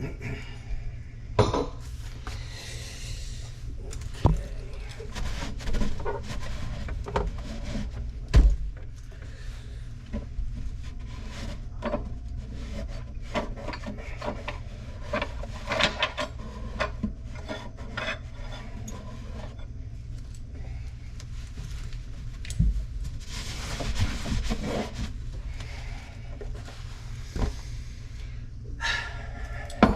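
Scraping and rubbing from hand work with tools and parts, broken by scattered sharp knocks and clatters, over a steady low hum.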